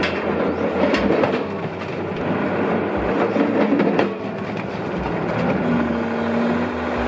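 Heavy machinery running: a steady mechanical din with knocks about once a second and a brief steady hum toward the end.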